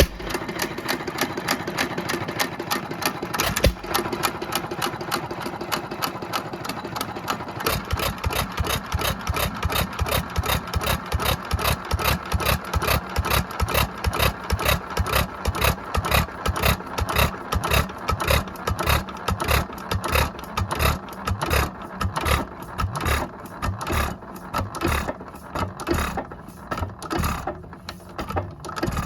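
1920 Economy 2 1/2 HP hit-and-miss engine running fast on its first test run with a rebuilt Webster magneto, with a quick, even beat of strokes. Near the end the beats spread out and get quieter as the engine slows.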